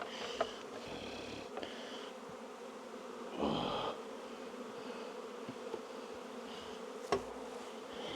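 Honey bees from an open hive buzzing steadily as a low hum, with a short rasp about three and a half seconds in and a few sharp knocks, the loudest about seven seconds in, as hive frames are moved.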